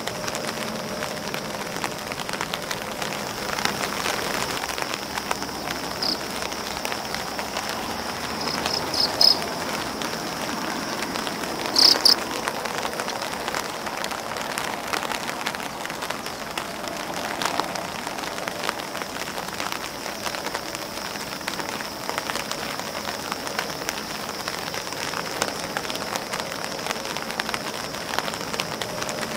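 Rain falling on an umbrella and on grass leaves: a dense, steady patter of drops, with a few louder taps around nine and twelve seconds in.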